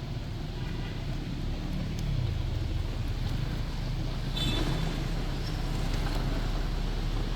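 Steady low rumble of a bus engine and city road traffic, with an even hiss of tyres and street noise over it. A short, sharp higher sound cuts in briefly about four and a half seconds in.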